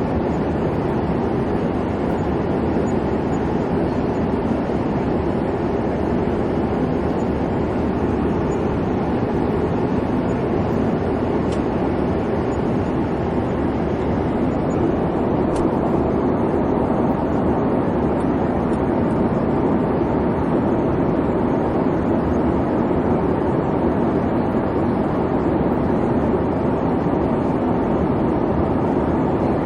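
Steady airliner cabin noise: an even low rumble of engine and airflow, with no change in level.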